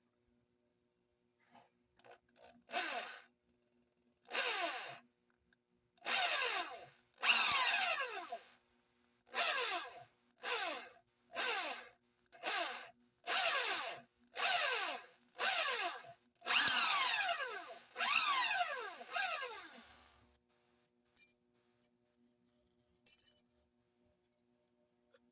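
Electric drill run in about a dozen short bursts, drilling shallow holes into a motorcycle's steel clutch plate to roughen it for grip. The motor's whine falls away each time the trigger is let go.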